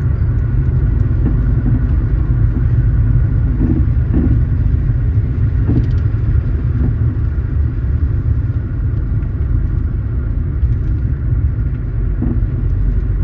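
Car driving along a road: steady low rumble of road and engine noise.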